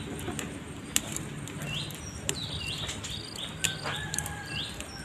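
A bird chirping: short, high notes repeated every half second or so, over a steady low background with scattered sharp clicks.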